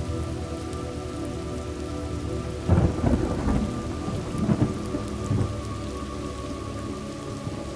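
Thunderstorm: steady rain falling, with a roll of thunder breaking about three seconds in and rumbling for two or three seconds before fading back into the rain.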